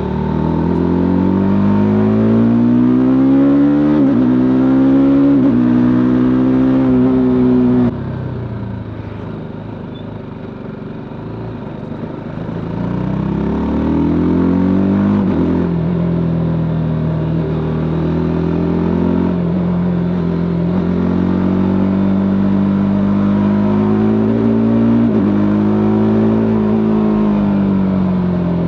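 TVS Apache RTR 310's single-cylinder engine and exhaust under way: the engine note climbs in steps with short dips as it accelerates through the gears, then drops and quietens when the throttle is closed about 8 seconds in. It picks up again a few seconds later and settles into a steady cruise, with the pitch falling off again near the end.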